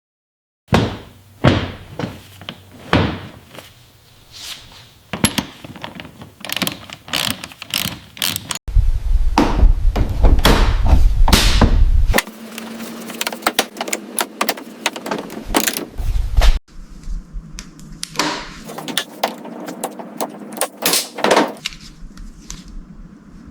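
Workshop knocks, clunks and metallic taps in quick succession, with a loud low rumble for a few seconds in the middle that stops suddenly.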